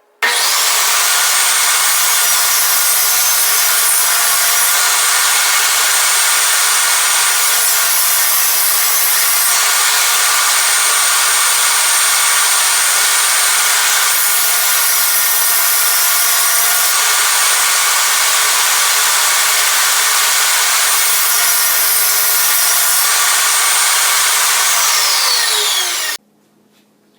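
Electric saw running and cutting 1/2-inch plywood, the sound changing over several passes, then the motor winding down near the end.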